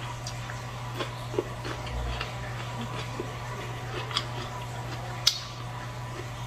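Chewing on fried chicken wing and cucumber: scattered irregular soft clicks and crunches from the mouth, with one sharp click about five seconds in, over a steady low hum.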